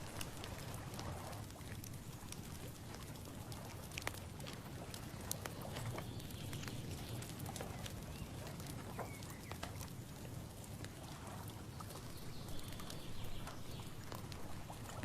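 Outdoor ambience: a steady low rumble with many scattered small clicks and knocks.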